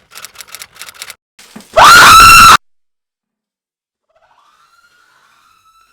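A woman screaming in fright, one short, very loud, high shriek about two seconds in, after a few soft rustles and clicks. A faint, long, high held cry rises in and stays level near the end.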